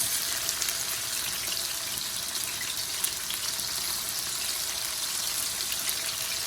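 Chicken pieces frying in hot corn oil in a pan: a steady sizzle with small pops and crackles.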